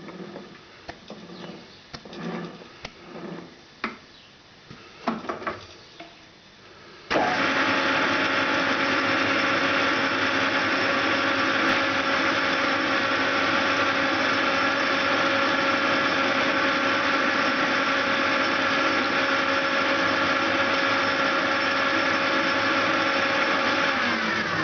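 Metal lathe switched on about seven seconds in and running steadily, then spinning down near the end. Before it starts, a few knocks and clicks as parts and tools are handled.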